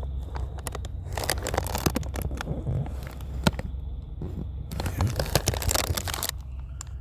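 Close crackling, crinkling and scraping handling noises, in bunches, over a steady low hum.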